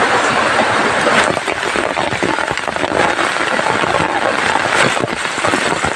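Heavy rain pouring down: a loud, steady hiss made up of countless small drop hits.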